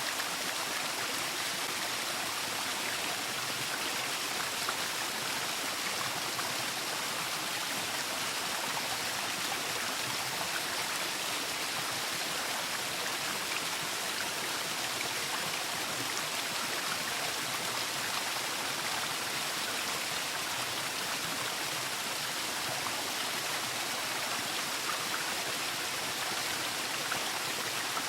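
Waterfall: a steady, even rush of falling water, with no changes.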